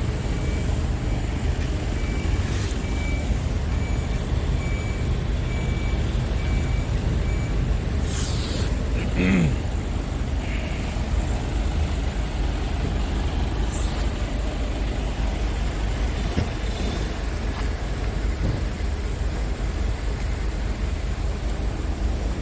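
Scania S tractor unit's diesel engine running steadily. Short beeps repeat about twice a second for the first third, and a hiss of released air comes near the middle.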